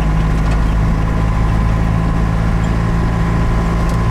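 Cummins 4BT four-cylinder diesel in a Ford F-150 running steadily, with a low, even drone.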